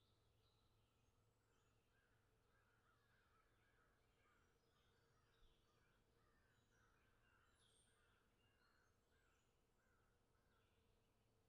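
Near silence, with very faint background birdsong of many short chirps over a low, steady hum.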